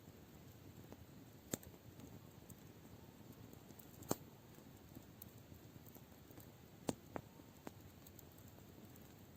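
Campfire burning quietly with a soft hiss and a handful of sharp pops. The loudest pop is about four seconds in, and three more come close together later on.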